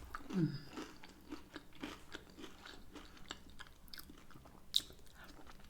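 A person chewing meaty chicken wings close to the microphone: soft wet mouth clicks and smacks, one sharper click near the end, and a brief low 'mm' falling in pitch about half a second in.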